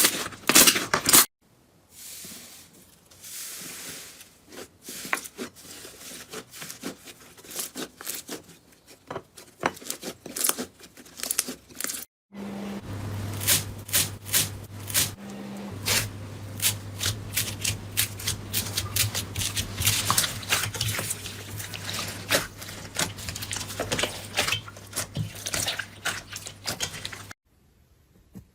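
Slime being squished, poked and stretched by hand: a dense run of wet clicks, pops and crackles in several short takes. A steady low hum sits behind the long middle take.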